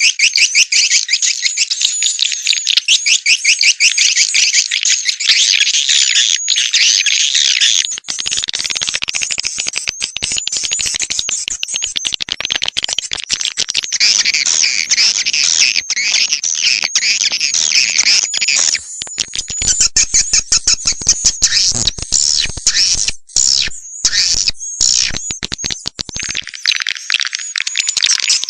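Recorded swiftlet calls played as a farm lure call: a dense, rapid, high-pitched twittering chatter of many birds. About a third of the way in a rougher hiss joins underneath, and past the middle the chatter turns choppy with short breaks.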